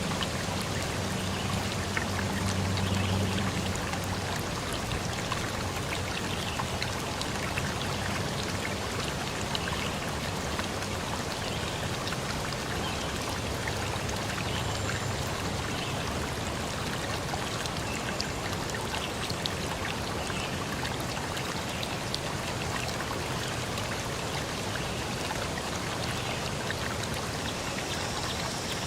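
A forest stream flowing, with a steady rush of water and many small splashes and drips. A low hum sits under it in the first few seconds.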